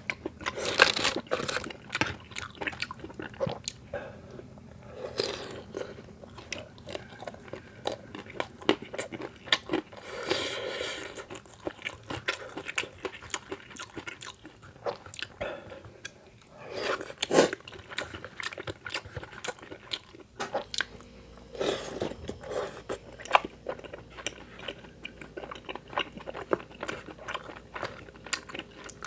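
Close-miked chewing and crunching of Korean fried snacks and spicy tteokbokki rice cakes, with irregular mouth clicks throughout and a few louder bites.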